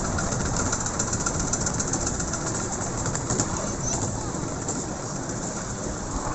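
Miniature steam railway train running along the track, heard from a carriage right behind the locomotive: a steady rumble with a rapid clatter of wheels on the rails.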